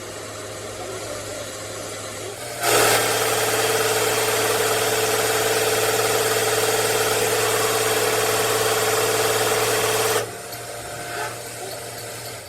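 A motor-driven machine starts abruptly about two and a half seconds in, runs at a steady speed with a constant whine and hiss, and cuts off sharply about seven and a half seconds later, over a low steady hum.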